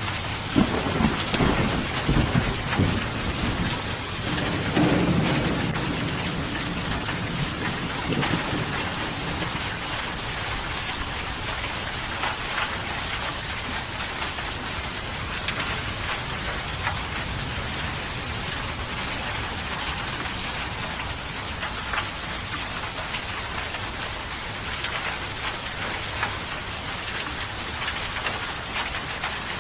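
Steady rain falling, with rolling thunder rumbling low through the first several seconds, then rain alone with the patter of individual drops.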